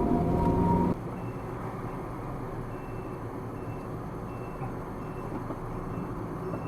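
Steady road and engine noise heard inside a moving car's cabin. A louder sound with steady tones cuts off about a second in, and a faint short high tone repeats now and then.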